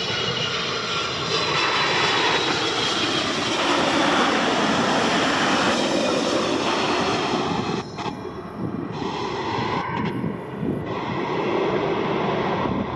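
Boeing 747-400 freighter's four turbofan jet engines running as the airliner flies on its landing approach, a loud steady rushing noise that dips briefly about eight seconds in.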